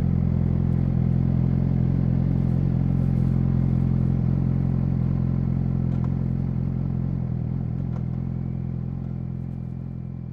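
Yamaha YZF-R6's inline-four engine idling steadily through an SC-Project SC1-R aftermarket exhaust, at an even pitch, gradually fading in the last few seconds.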